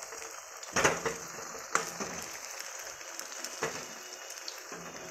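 Chhena patties sizzling steadily in hot oil in a metal kadai, with a few sharp clinks of a perforated metal slotted spoon against the pan as the patties are turned.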